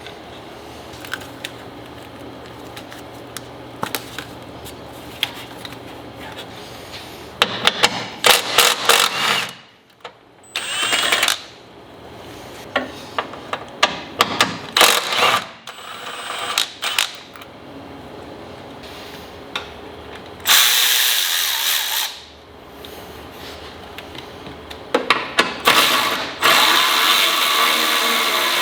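Power tools and hand tools working on a car engine. Short runs and clicks are broken by two longer, louder, steady runs of a power tool near the end.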